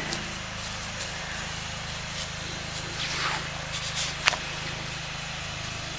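Steady low drone of a small engine running, which the listener takes to be a lawnmower next door. A few faint rustles come about three to four seconds in, with a short sharp click just after.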